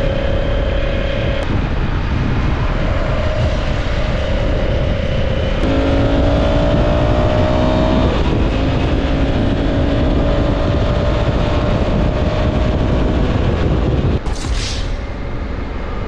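Honda Africa Twin 1100's parallel-twin engine pulling under acceleration, heard from the rider's seat over heavy wind rush; its pitch climbs from about six seconds in, drops about eight seconds in, then climbs slowly again. Near the end the engine sound breaks off and a brief hiss follows.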